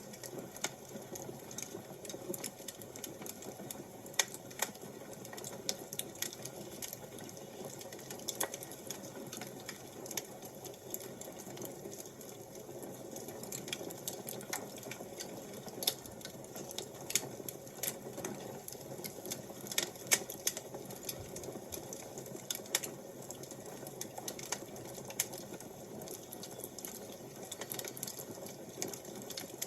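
Fire crackling: irregular sharp snaps and pops over a steady soft hiss.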